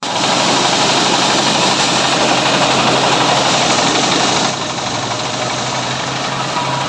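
Mobile corn sheller driven by a 33 hp diesel engine, running with a loud, steady mechanical din. The din drops somewhat in level about four and a half seconds in.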